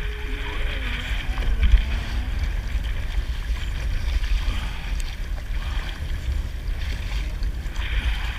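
Wind buffeting the microphone, with water washing against a kayak on the open sea.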